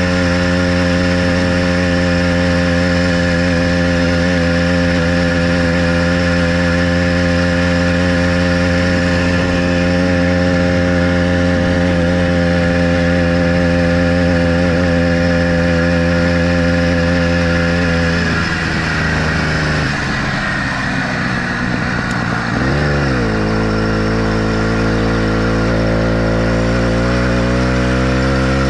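Motorized bicycle's small engine running at steady cruising revs, then dropping off about two-thirds through as the throttle eases, dipping briefly low and then climbing slowly again as it accelerates.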